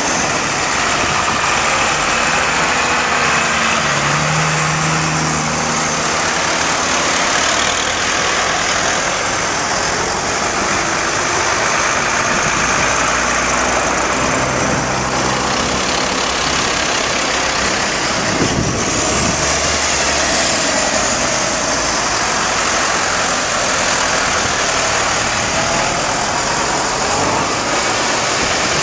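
Tractor engines running steadily as a line of tractors drives past, their engine notes shifting as each one goes by, with a brief low knock about two-thirds of the way through.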